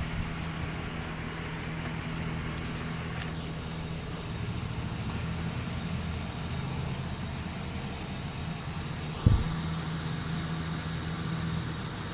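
Truck engine idling steadily, with a faint click about three seconds in and a short thump a little after nine seconds.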